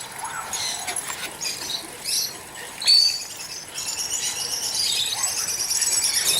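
Dogs at play: short high squeaks and scuffles, the loudest a sharp high squeak about three seconds in. From about four seconds in, a steady high chirring runs underneath.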